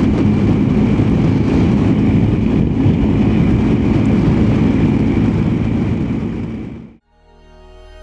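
BMW R1250GSA's boxer-twin engine and wind noise while riding at a steady pace. It fades out about seven seconds in, and soft music with held notes begins.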